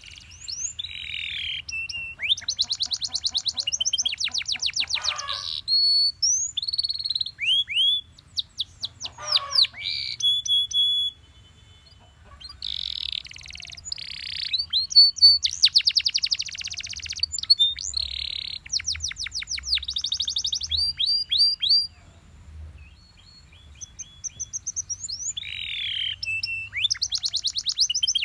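Belgian canary singing: phrases of rapid trills and fast repeated notes, with two short pauses, around 12 seconds and 23 seconds in. A faint low hum runs underneath.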